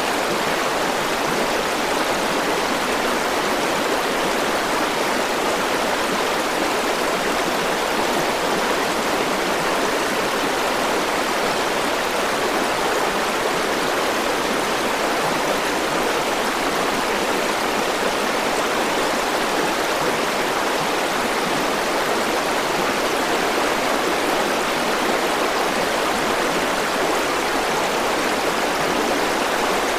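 River water rushing steadily over rocks, a continuous even flow with no breaks.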